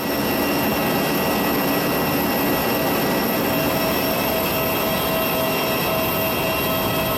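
Steady running noise heard from inside a moving vehicle: an even hiss with several steady whining tones above it.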